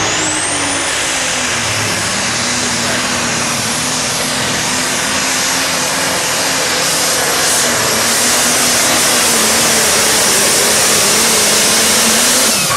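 Multi-turbocharged super stock diesel pulling tractor running at full power down the track, a loud steady roar with a high turbocharger whine that climbs over the first second and then holds. The sound drops off abruptly near the end as the pull ends.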